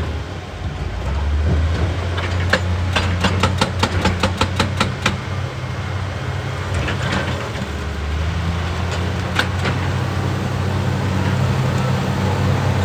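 Excavator's diesel engine running steadily, with a run of sharp knocks about a third of the way in, roughly four a second, and a few single knocks later: metal and rock striking as the machine works rock.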